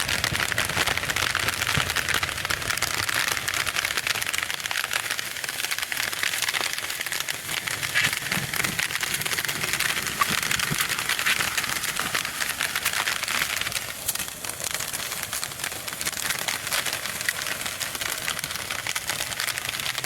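Heavy rain falling steadily: a dense crackle of many drops striking close by.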